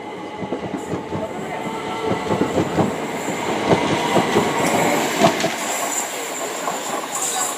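Southern Class 377 Electrostar electric multiple unit running past, its wheels clicking and clattering irregularly over the track, with a faint high wheel squeal from about five seconds in.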